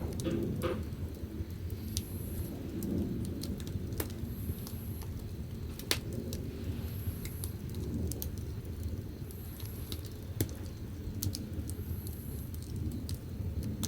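Firewood burning in the firebox of a wood-fired bath: a steady low rumble of the fire with sharp crackles and pops now and then, the loudest about six and ten seconds in.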